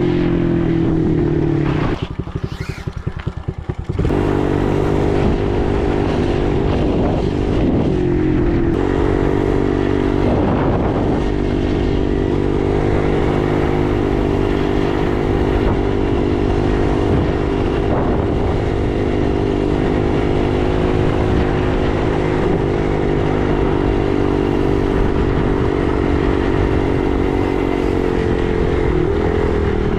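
Dirt bike engine running at a steady throttle. About two seconds in it drops off throttle for a couple of seconds, so the separate firing pulses can be heard, then picks up again and holds steady.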